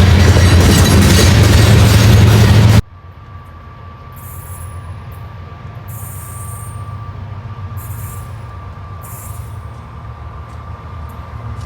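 A diesel freight locomotive passing close and loud, with heavy low rumble and rail noise, cut off abruptly about three seconds in. Then a quieter train rumble follows, with a faint steady whine and several short, high-pitched wheel squeals.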